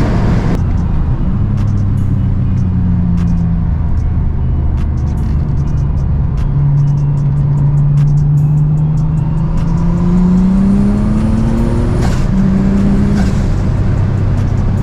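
Car engine running at steady revs, then rising in pitch as it picks up speed about halfway through, with music playing along.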